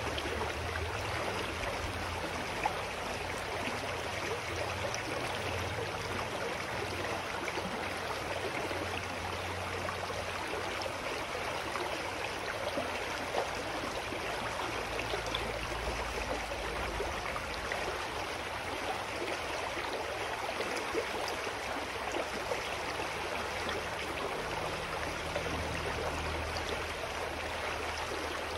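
A clear mountain stream flowing steadily over rocks, a constant rushing and babbling with small splashes throughout.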